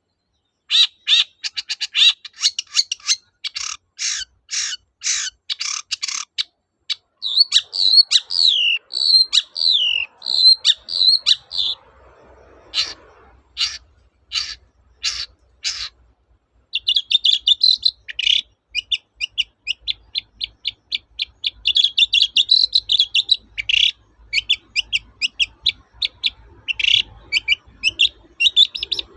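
Long-tailed shrike (cendet) singing. It opens with a rapid run of short, harsh repeated notes for about six seconds, then warbles. A few separate notes follow, and it ends in long stretches of fast, chattering phrases.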